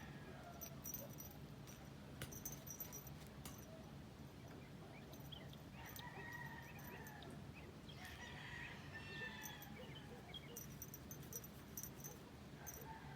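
Distant roosters crowing faintly, two drawn-out crows about six and eight seconds in, over a low steady hum.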